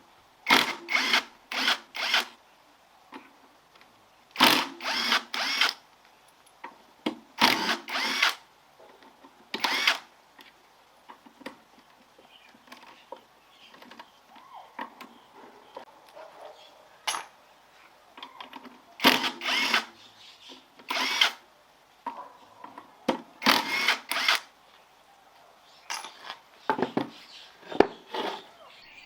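Hand-held power drill run in short squeezes, each under a second, often several in quick succession, with pauses between clusters.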